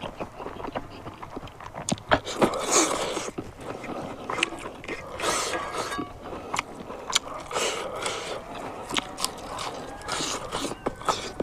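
A person chewing and biting food close to the microphone, with irregular crunches and clicks.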